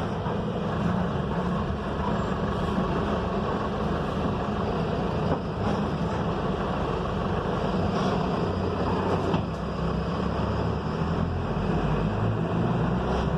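Mercedes-Benz OF-1721 front-engined bus running steadily under way, its engine hum mixed with road noise and a few light rattles.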